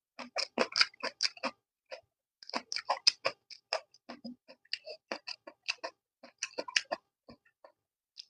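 Close-up chewing of crunchy food: a run of irregular crisp crunches and mouth clicks, in clusters with short pauses.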